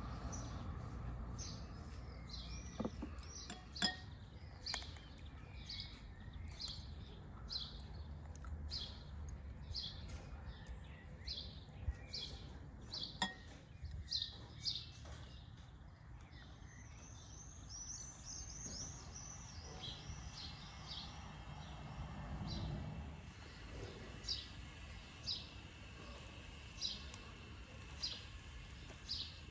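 Small songbirds chirping, repeated short high notes more than once a second, with a quicker twittering run of notes about halfway through. A few sharp clicks stand out now and then.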